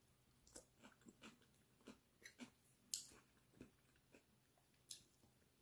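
Faint chewing: a person eating stir-fried shrimp, with a scatter of small clicks as he chews.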